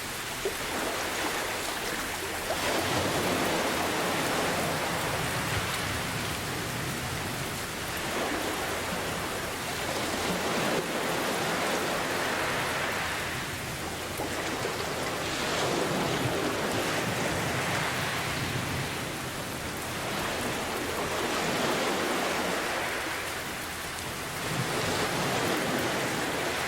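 Steady rain mixed with ocean waves, the sound swelling and fading every few seconds, with low thunder rumbling at times.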